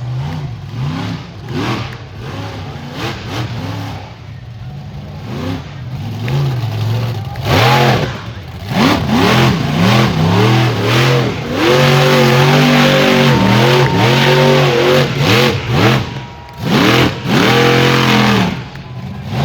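Monster truck engine revving hard: short throttle blips rising and falling, then held at high revs for several seconds with a few quick lifts of the throttle.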